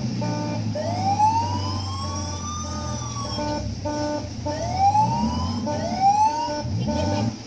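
Electronic siren sound effect from a kiddie ride's speaker: one long slow rising whoop, then two shorter rising whoops near the end, over a steady low hum.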